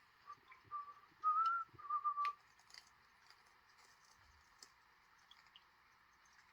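A person whistling a few short, soft notes of a tune for about two seconds, followed by faint small clicks and taps.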